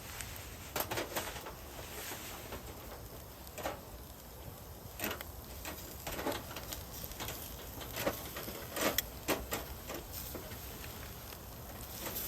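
Scattered, irregular clicks and taps, about a dozen, over a low steady hum.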